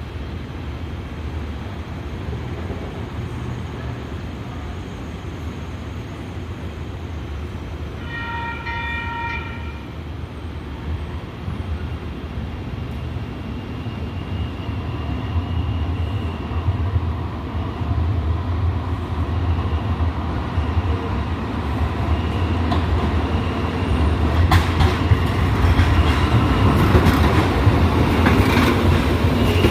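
Light rail train approaching: one short horn blast about 8 seconds in, then its running noise grows steadily louder, with a thin whine and quick wheel clicks over the rail joints near the end.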